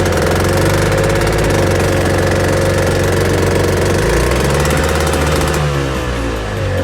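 An engine running steadily with a fast knocking beat, under background music.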